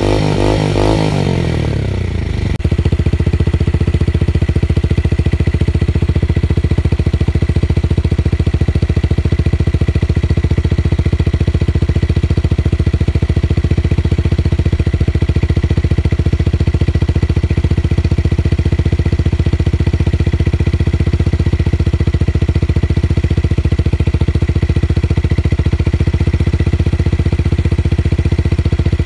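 Tuned motorcycle engine with a deep, bass-heavy exhaust note, blipped briefly at the start, then dropping about two and a half seconds in to a steady, even idle.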